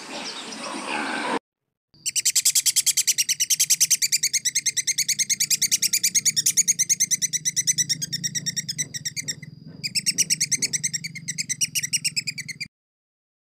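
A fast, even series of high chirps, about ten a second, runs for roughly ten seconds over a low hum, with a short break partway through. It is preceded by a brief rough, noisy sound that cuts off about a second and a half in.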